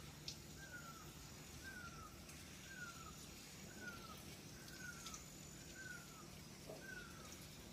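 A bird calling faintly, one short falling note repeated evenly about once a second, over quiet forest background.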